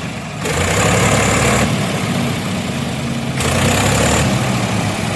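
Diesel tractor engine running, with two louder surges: one about half a second in lasting over a second, and a shorter one about three and a half seconds in.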